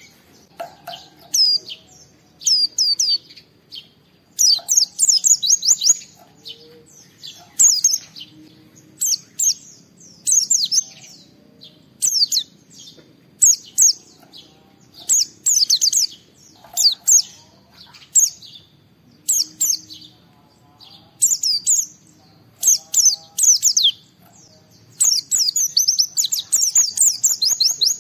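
White-eye (pleci) singing: rapid, high twittering phrases in short bursts every second or two, with longer runs of song near the start, about five seconds in, and near the end.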